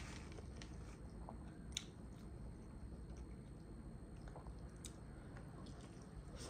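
Faint chewing and mouth sounds of a person eating stuffed collard green rolls, with two faint clicks about two and five seconds in.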